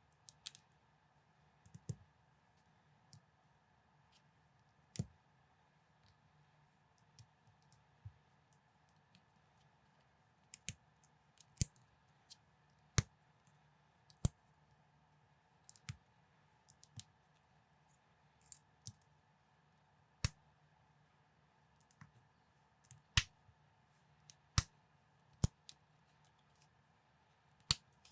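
Plastic building bricks clicking as pieces are handled and pressed together, in sharp, separate clicks at an irregular pace, some in quick pairs, over a faint steady hum.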